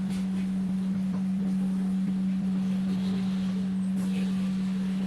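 Electric hair trimmer running, a steady low hum.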